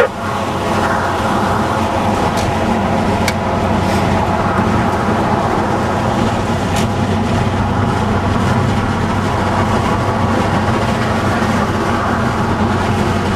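Car being driven, with steady engine and road noise.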